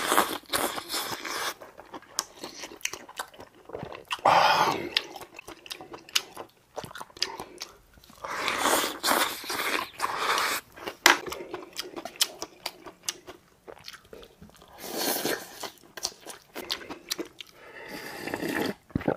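A person chewing and crunching food close to the microphone: wet mouth clicks and crunches, with louder stretches of chewing a few seconds apart.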